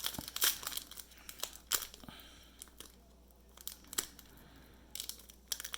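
Donruss basketball card pack wrapper crinkling and tearing as it is opened by hand, in scattered irregular crackles with a short lull in the middle.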